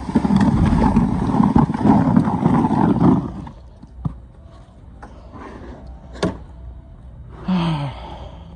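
Snow shovel scraping along pavement as it pushes snow, a long rough stroke that stops about three seconds in, followed by a few sharp knocks.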